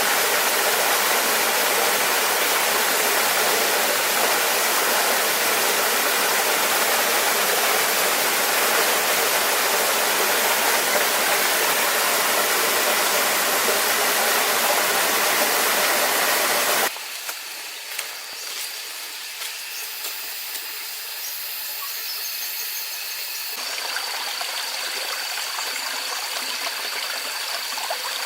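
Steady rushing of falling water, like a waterfall, which cuts off abruptly about two-thirds of the way through. A quieter stretch follows, with a thin steady high whine and scattered light clicks.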